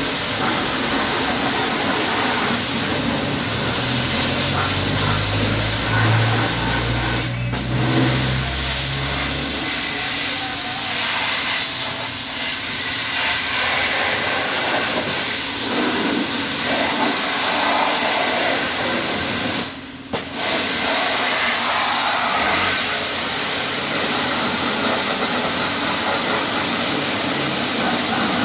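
High-pressure washer spray hissing steadily against a car's body during a touchless wash, with a low motor rumble under it for the first few seconds. The spray cuts out twice, very briefly, once about a third of the way in and once about two-thirds in.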